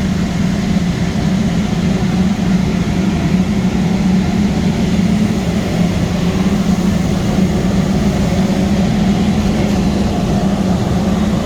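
Steady low drone of a steam boiler room's running machinery: a firing boiler's burner and combustion blower.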